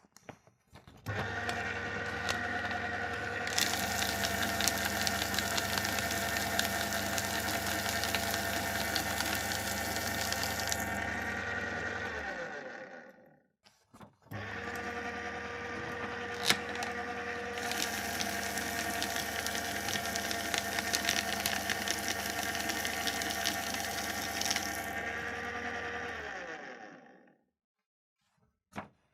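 Electric paper shredder run twice. Each time the motor starts with a steady hum, paper goes through the cutters with loud grinding for about seven seconds, then the motor runs on empty briefly and winds down to a stop.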